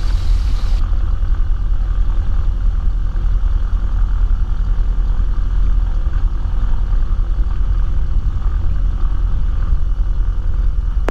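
Cessna 172's piston engine idling steadily on the ground, heard from inside the cabin as a constant low drone.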